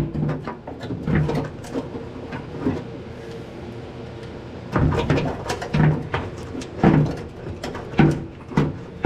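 Hand tools clunking and knocking on the old truck's rusted front-end bolts. A few knocks come near the start, then it goes quieter for a couple of seconds. From about five seconds in there is a run of about six clunks, less than a second apart.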